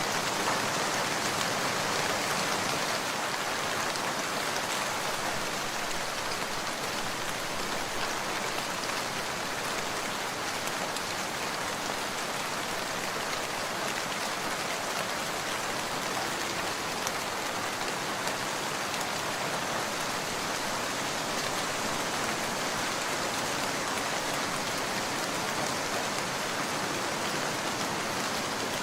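Steady heavy rain falling, a dense continuous hiss of drops with fine individual patters in it.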